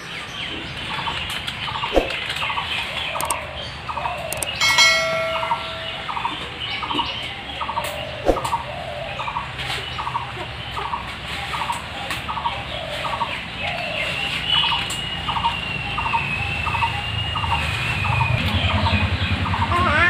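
A bird calling steadily, short repeated notes about two a second, with a few brief chirps and a long thin whistle a few seconds before the end, over a low background hum.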